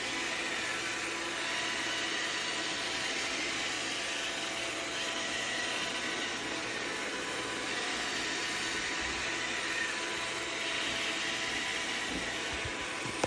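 Roomba robot vacuum running steadily, its motor and brushes making a continuous whirring hum with a fixed high whine.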